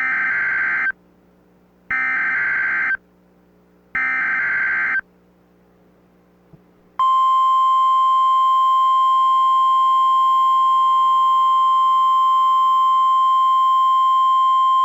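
NOAA Weather Radio Emergency Alert System tones. Three one-second bursts of the warbling SAME digital header come about two seconds apart, and about seven seconds in a steady, loud 1050 Hz weather alert tone starts and holds. Together they signal that a High Wind Warning is being broadcast.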